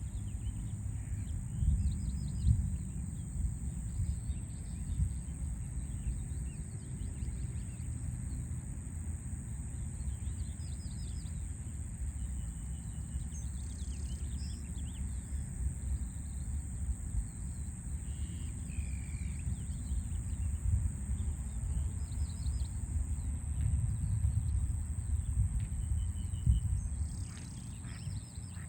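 Small birds chirping now and then, short calls scattered throughout, over a steady low rumble of city background noise.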